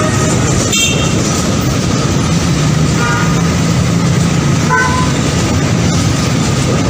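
Train running with a loud, steady noise and a low hum, with a few brief faint tonal notes.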